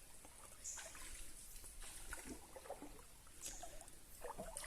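Faint trickling water, with faint distant voices in the background.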